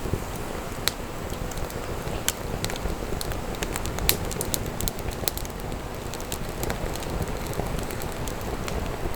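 Wood fire crackling, with sharp irregular pops and snaps over a steady low rushing noise.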